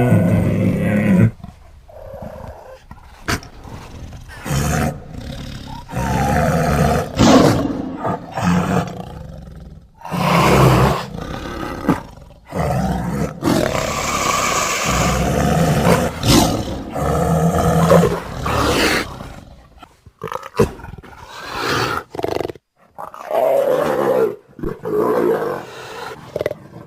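Big-cat roars and growls, one call after another, each lasting a second or so with short breaks between them.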